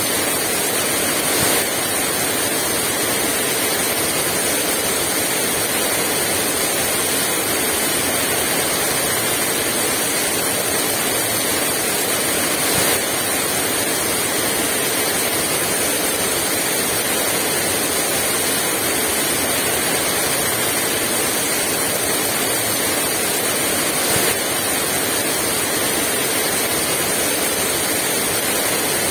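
Heavy rain falling steadily, a dense, even hiss, with three brief louder moments spread through it.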